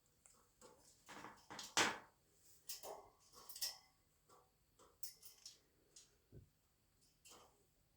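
Parrot whispering: soft, breathy little bursts of sound at irregular intervals, loudest in the first few seconds.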